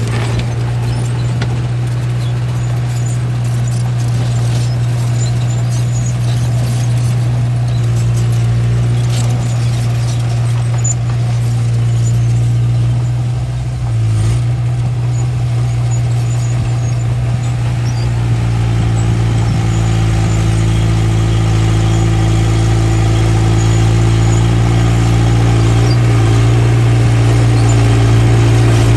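Small bulldozer's diesel engine running steadily at working revs, with a brief dip about 14 seconds in.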